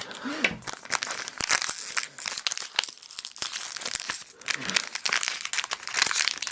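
A Pokémon booster pack's wrapper crinkling and tearing as it is worked open by hand, a dense irregular run of crackles; the pack is hard to get into.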